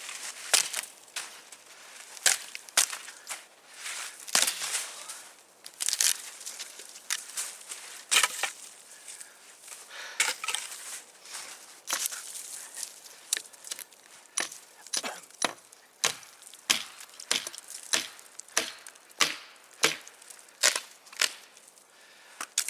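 A blade chopping into wood: a long run of sharp strikes, about one or two a second, irregularly spaced.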